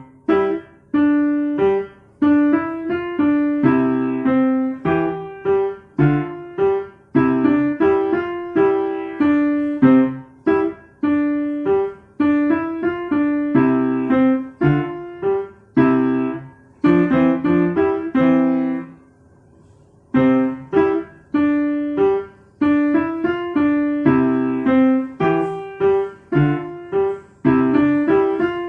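Piano played by a young beginner: a simple tune of separate struck notes in the middle register. There is a break of about a second roughly two-thirds of the way through, then the playing goes on.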